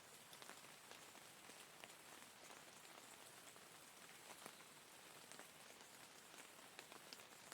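Faint, steady rainfall: an even hiss of rain with individual drops ticking here and there.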